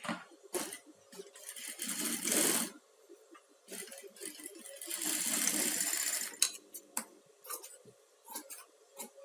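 Sewing machine stitching the joint of a bias binding strip in two short runs of about a second each, with clicks of handling and the machine's parts between them.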